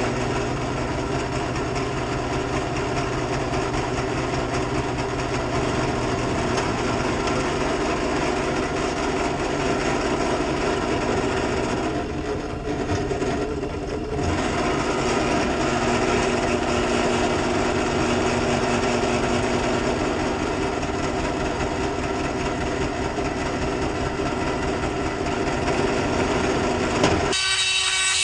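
Electric grinder running steadily under load, grinding the heat-treat scale off a forged knife blade, with a brief easing near the middle.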